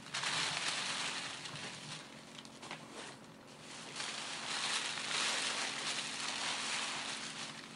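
Gift wrapping paper being torn and crumpled in two long spells, with a quieter pause in between holding a couple of sharp crackles.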